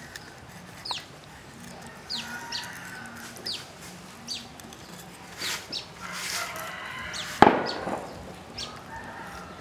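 Birds calling in the background: a scattered series of short, quick downward-sweeping chirps. One sharp knock about seven and a half seconds in is the loudest sound.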